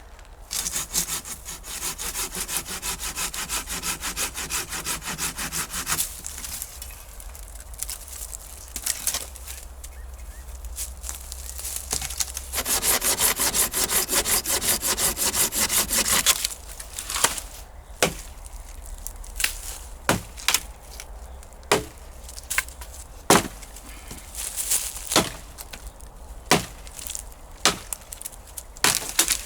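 Dead wood being sawn for firewood: two spells of fast, even saw strokes, then a run of single sharp cracks of wood about a second or two apart.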